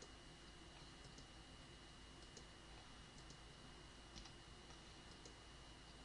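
Near silence: room tone with a faint steady high whine and a few faint, scattered clicks from working a computer's mouse and keyboard.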